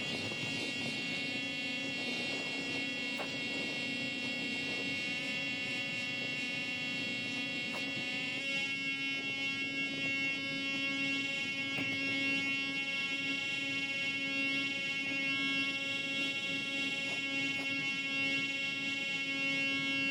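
A steady buzzing drone from a flying kite, one sustained tone rich in overtones that shifts slightly about eight seconds in.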